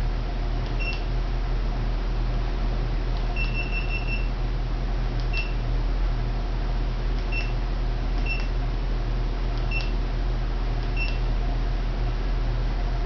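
Short high electronic beeps from a motorcycle LED lighting kit's controller as its remote is used to step through patterns and colours. There are seven beeps spaced a second or two apart, one held for nearly a second, over a steady low hum.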